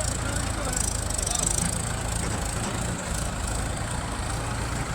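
Heavy diesel machinery engine running steadily with a low rumble.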